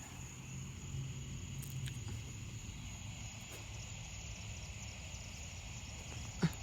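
Outdoor ambience of insects buzzing steadily at a high pitch over a low rumble, with one short pitched call just before the end.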